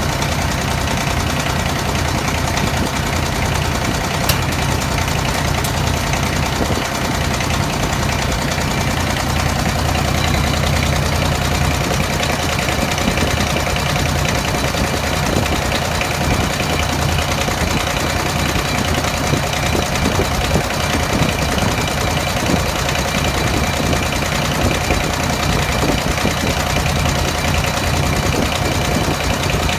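Three-cylinder Kubota diesel engine running at a steady idle. The owner found one of its injectors misadjusted or bad.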